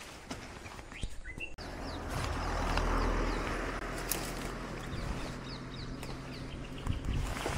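Small birds chirping in short, quick notes, over a low steady rumble that swells a couple of seconds in and then eases.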